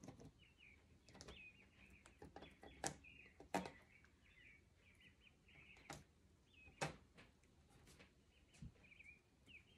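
Faint chirping of a small bird: a steady run of short, high chirps, with several sharp clicks and taps from handling craft materials at the table.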